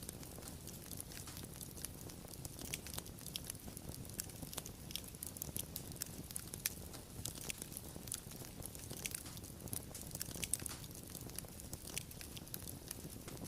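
Wood fire crackling, with irregular sharp pops and snaps over a low steady rumble of the burning logs.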